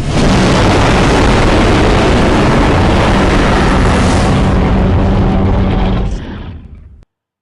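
Custom Galactus roar sound effect: one loud, deep, noisy roar held steady for about six seconds, then fading away and cutting off near the end.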